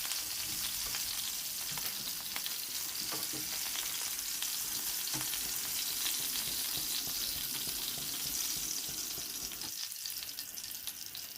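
Chicken pieces sizzling steadily as they pan-fry in olive oil, with scattered light clicks from turning or stirring.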